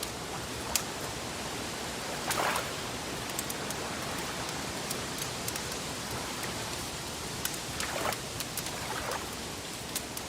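Wood fire crackling: a steady hiss with many small sharp crackles scattered throughout and a few louder pops, one about two seconds in and a couple more late on.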